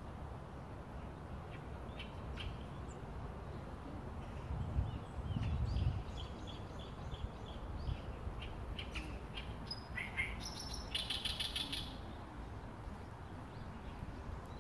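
Small birds chirping: a string of short high calls from about five seconds in, with a quick run of repeated notes near eleven seconds. Under them is a steady low rumble that swells about five seconds in.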